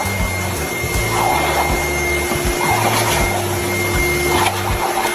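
A small electric appliance running steadily: a constant rushing noise with a steady motor whine, over background music.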